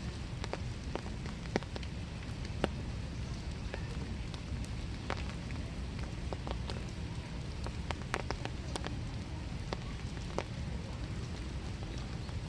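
Winter rain falling steadily in a small wood, with scattered individual drops ticking sharply and irregularly on nearby surfaces.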